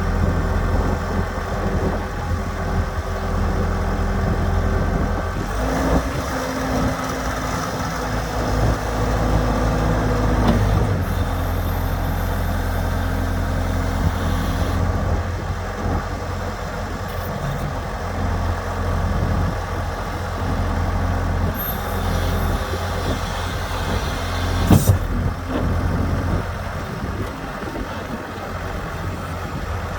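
Case 95XT skid steer loader's diesel engine idling steadily. An extra steady tone joins it for a few seconds, and a single sharp click comes near the end.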